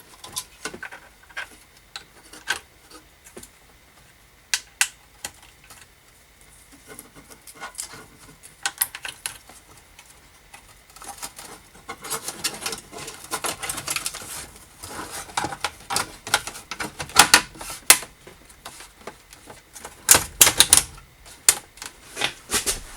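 Irregular clicks, taps and light rattles of small hard parts being handled, sparse at first and busier through the second half.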